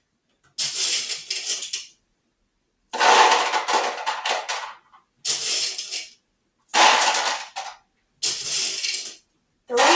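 M&M candies being poured out, rattling and clicking against one another and a hard container, in five separate pours of about a second each.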